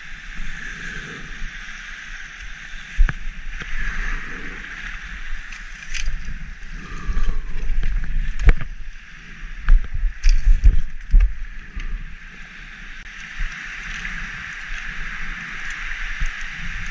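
Muffled shore surf washing over sand, heard through a GoPro's waterproof housing, with scattered knocks and thumps from gear being handled against the camera, clustered in the middle.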